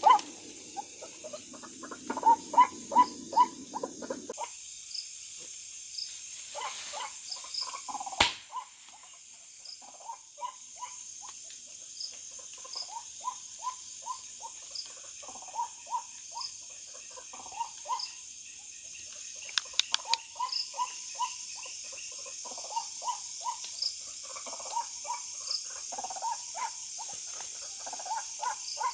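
Night-time chorus of frogs giving short repeated croaks over a steady high trill of crickets and other insects. A single sharp click sounds about eight seconds in, and a few faint clicks come around twenty seconds.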